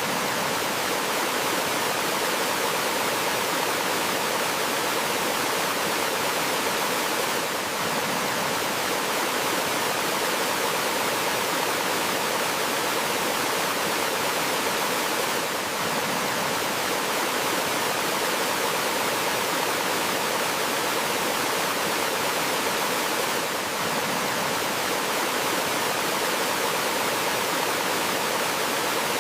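A stream tumbling over a small waterfall, making a steady hiss of flowing water with no let-up. The level dips slightly about every eight seconds.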